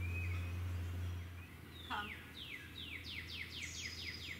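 A songbird singing: one long falling note about two seconds in, then a quick run of short falling notes, about four a second. Under it is a low steady hum that eases after the first second and a half.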